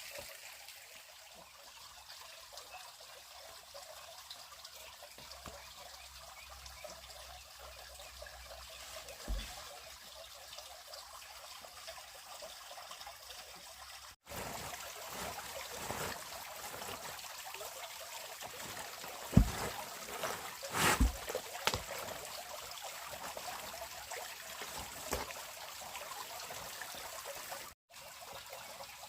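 Water trickling steadily. It breaks off briefly twice, and a few knocks come through in the second half.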